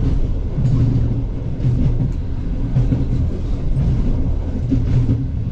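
Passenger train running on the rails: a steady low rumble with a few faint clicks now and then.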